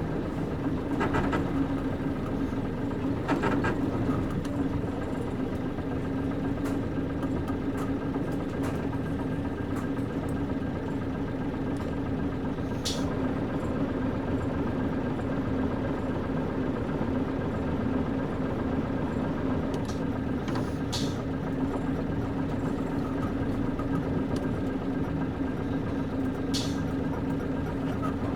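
Nissan Diesel KC-UA460LSN bus's PG6 diesel engine heard from inside the cabin, running at a steady, unchanging pitch. A few short, sharp clicks or creaks sound about halfway through and near the end.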